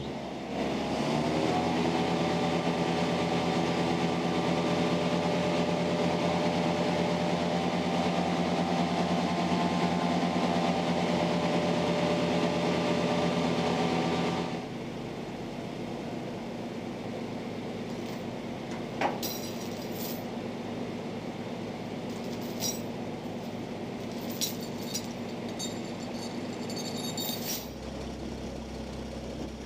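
1946 Dodge truck's 236.6 cubic inch flat-six engine running, settling to a steady speed in the first second or so. About fourteen seconds in, the sound drops abruptly to a quieter, lower running. Several light metallic clinks and ticks come in the second half.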